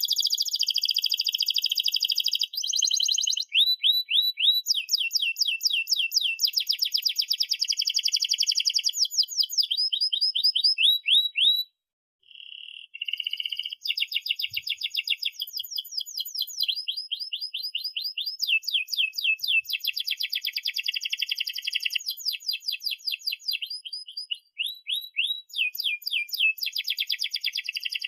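Domestic canary singing a long song of rapid rolling trills and fast repeated chirps. It breaks off for a moment about twelve seconds in, then carries on.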